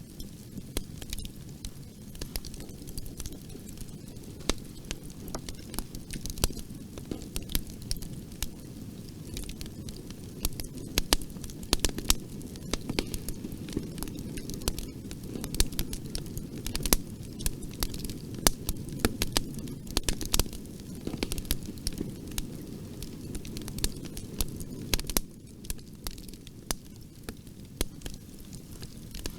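Bonfire burning: a steady low rumble of flames under frequent sharp, irregular crackles and pops of burning wood.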